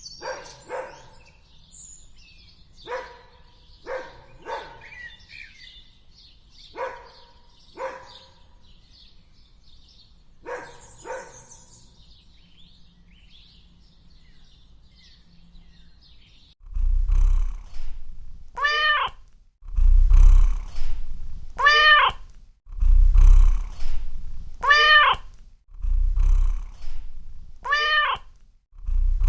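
Animal calls. First come short, spaced yips or barks, singly and in pairs. Then, about two-thirds of the way through, loud, drawn-out meow-like calls start, repeating about every second and a half over a low rumble.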